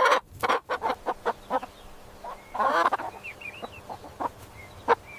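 Chickens clucking: a quick run of short clucks, a longer drawn-out squawk a little past halfway, then a few faint, high chirps.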